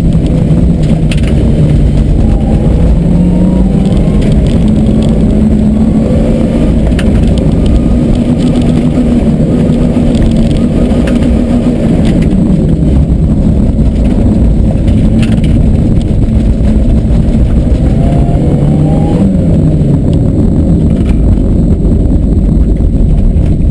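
Car engine under hard throttle in second gear through an autocross course, heard from inside the cabin. Its pitch rises and falls with the throttle over loud wind and tyre noise, then dips sharply about nineteen seconds in and climbs again.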